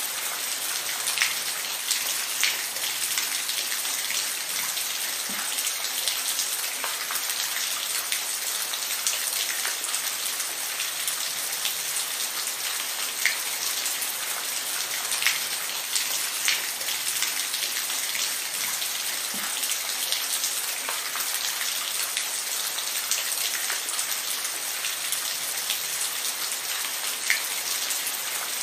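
Steady rainfall: an even hiss of rain with scattered close drops ticking sharply on a surface.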